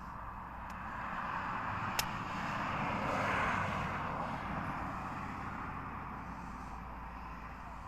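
A vehicle passing by: a rushing noise that swells to a peak about three seconds in and then slowly fades. There is a single sharp click about two seconds in.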